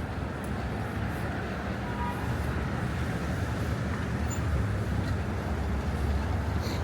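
Steady city street traffic: a low rumble of vehicles passing, growing slightly louder toward the end.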